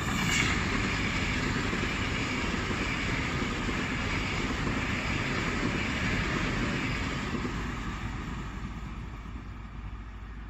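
EuroCity electric tilting train (Pendolino-type) passing close at speed: a steady rumble of wheels on rail with a rushing hiss, loudest about half a second in, then fading over the last few seconds as it runs away down the line.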